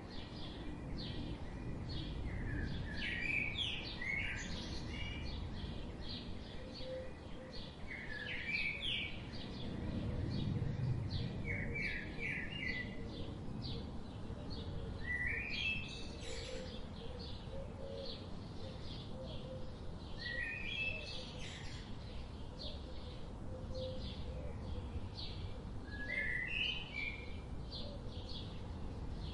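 Forest songbirds chirping, with short songs of quick repeated notes every few seconds, over a steady low background rumble.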